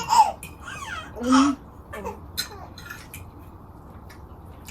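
A couple of short voice sounds in the first second and a half, then a few light clicks of cutlery on plates during eating.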